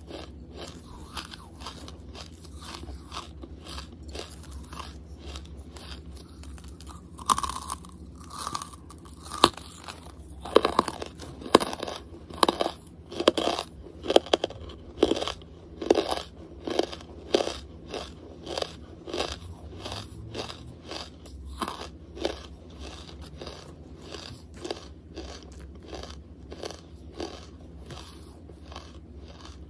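A person chewing a hard lump of charcoal, close to the microphone. A loud crunch comes about a quarter of the way in, then rhythmic crunching chews follow at about two a second and soften toward the end.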